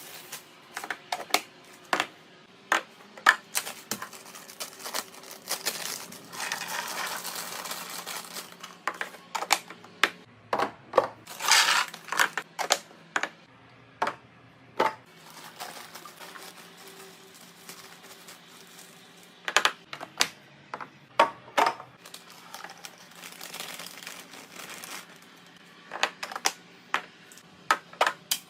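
Restocking a fridge: a rapid series of sharp clicks and clinks as small plastic and glass containers are set down and arranged, with a few stretches of crinkling packaging.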